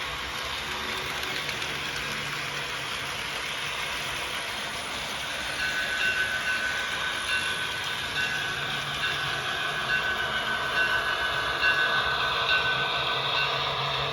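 HO-scale model train running along the layout track, a steady rolling rush of wheels and motor. About halfway through a thin high whine joins in and the sound grows louder and more uneven.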